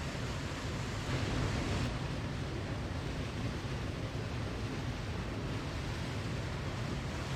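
Waterfall: a steady rush of falling water. It swells slightly about a second in and drops back sharply just before the two-second mark.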